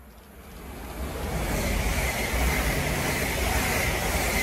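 Class 720 Aventra electric multiple unit, two units coupled, passing through at speed. The rush of wheels and air grows quickly louder over the first two seconds, then holds as a steady loud rumble with a high whine on top.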